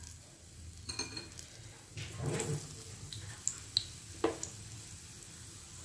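Batter-coated potato vadas frying in moderately hot oil with a faint, steady sizzle, with a few light clicks and taps of a spoon in the glass batter bowl scattered through.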